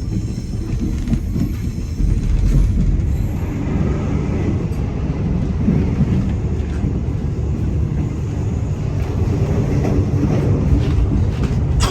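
Passenger train running, a steady low rumble of the carriage and wheels heard from inside a sleeper compartment.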